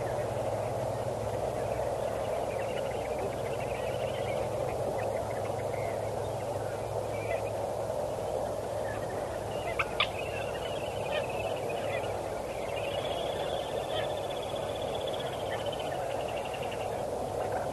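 Birds calling: scattered short high calls, with a longer rapid pulsed call over a few seconds in the second half, over steady low background noise. Two short sharp sounds come about ten seconds in.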